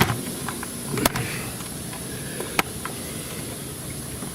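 Three sharp clicks or taps, about a second or more apart, over a steady background hiss with a faint, constant high-pitched whine.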